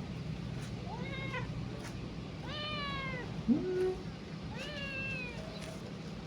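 Kitten meowing three times, thin high calls each under a second long and about a second and a half apart. A short, louder, lower-pitched sound comes just before the third meow, over a steady low hum.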